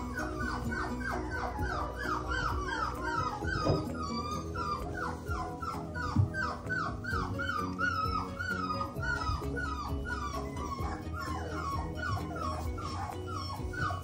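Four-week-old puppies whimpering and squealing, a quick run of short high cries several a second, over background music with steady held notes.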